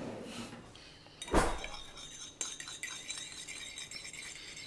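A single sharp clink of kitchenware about a second and a half in, something striking a bowl, followed by a faint steady hiss.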